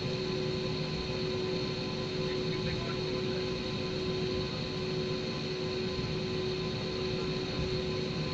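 Jet airliner cabin noise: a steady rush of engine and airflow noise with a few steady whining tones running through it.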